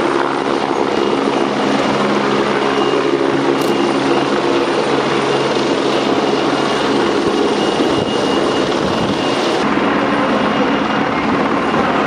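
Helicopter running steadily: an even engine and rotor noise with several steady low tones under it.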